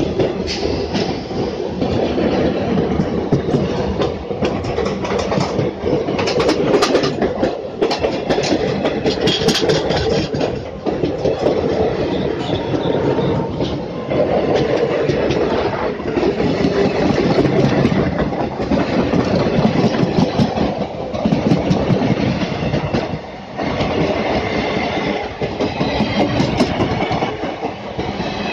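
Indian Railways passenger coaches rolling past close by, the wheels knocking repeatedly over the rail joints under a steady rumble of the running train.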